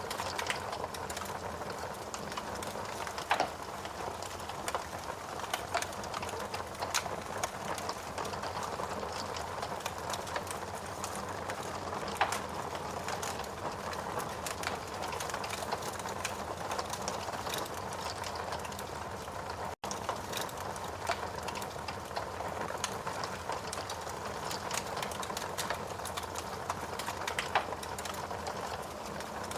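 Steady rain with a wood fire crackling, frequent small pops and a few louder snaps. The sound drops out for an instant about two-thirds of the way through.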